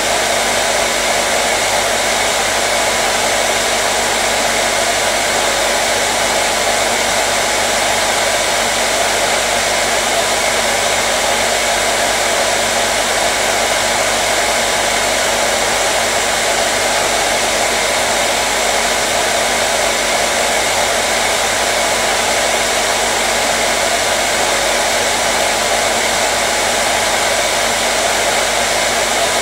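Hair dryer running continuously at a steady speed: an unchanging airflow rush over the motor's steady hum.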